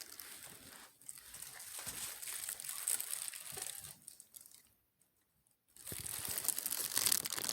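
Paper takeout bag rustling and crinkling as it is handled, in two spells with a short quiet gap between.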